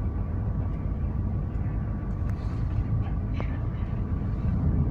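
Inside the passenger cabin of a Hitachi Class 800 InterCity Express Train running on diesel power: a steady low rumble from the train underway, with a faint steady tone and a couple of light clicks.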